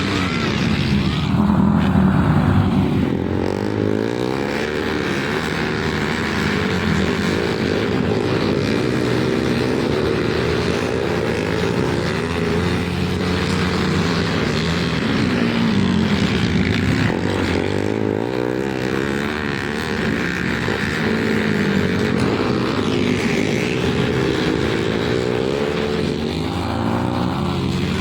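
Several flat-track racing motorcycle engines running hard together, their pitches rising and falling as the riders roll off and get back on the throttle, loudest about two seconds in.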